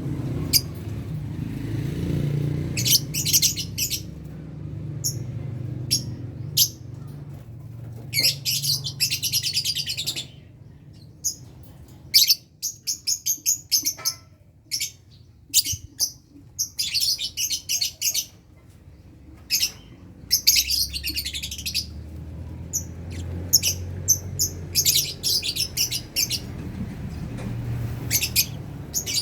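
Lovebirds chirping: repeated bursts of rapid, high-pitched chirps and chatter, with short pauses between them, over a low steady hum.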